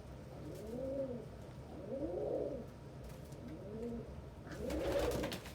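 Domestic pigeon cooing, four rising-and-falling coos, the last and loudest with a short rustle.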